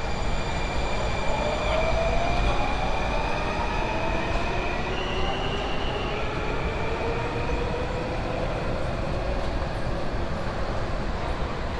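Metro train running past, with a low rumble under a motor whine that glides in pitch and a steady high tone that steps up in pitch about halfway through.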